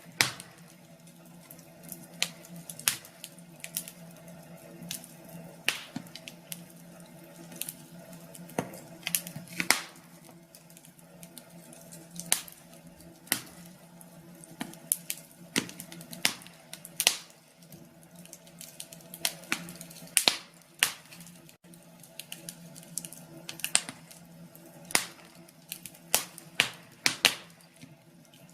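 Wood fire crackling: irregular sharp pops and snaps, sometimes several a second, over a soft steady background.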